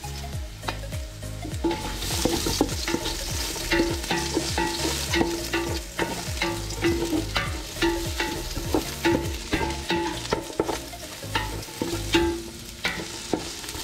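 Strips of fresh ginger sizzling in hot olive oil in a metal pot while being stirred, with frequent clicks and scrapes of the utensil against the pot. The sizzle grows louder about two seconds in.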